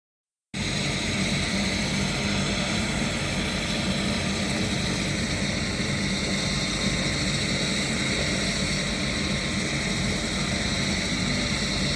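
Helicopter running steadily, its rotor and turbine giving a constant drone that starts about half a second in.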